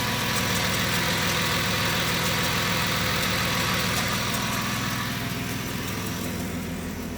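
2002 Chrysler Sebring engine idling steadily during an engine run test.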